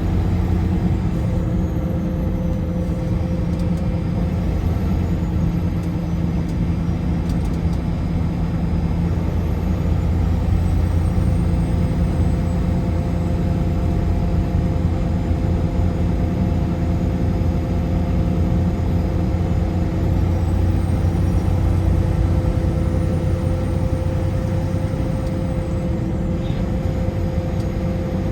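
Car driving at highway speed: steady engine and road noise with a continuous low rumble and a faint even hum.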